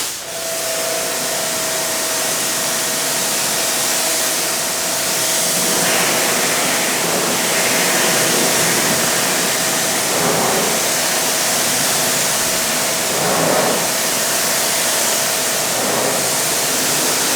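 Kränzle HD7 pressure washer spraying, its water jet hissing steadily against a car's lower body panel to rinse off grime, with a steady whine from the machine under the spray. It starts abruptly as the trigger is pulled, and the spray swells a little now and then as the jet moves over the panel.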